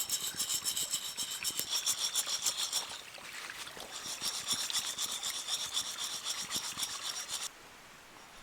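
Fast rhythmic rasping scrape, several strokes a second, that stops suddenly about seven and a half seconds in.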